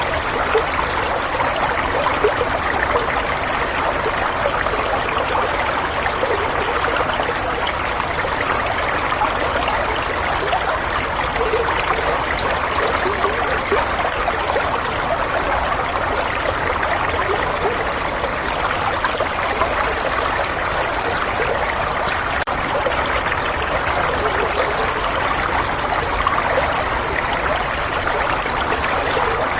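Flowing water, a small stream or trickle running and babbling steadily without let-up.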